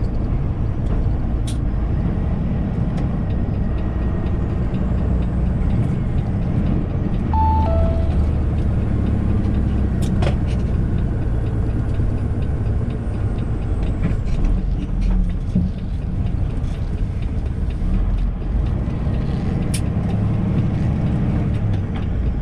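Lorry cab interior: a steady low drone from the engine and road, with a short two-note falling chime about seven seconds in and a few sharp clicks.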